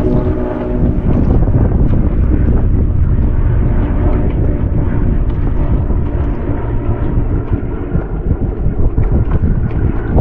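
Wind buffeting the microphone over the low, steady drone of WW2-era propeller warplanes flying overhead.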